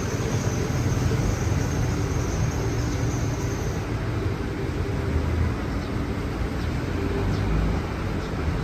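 City street traffic: motor vehicle engines running with a steady rumble and road noise. A faint high whine sounds over it for about the first half, then stops.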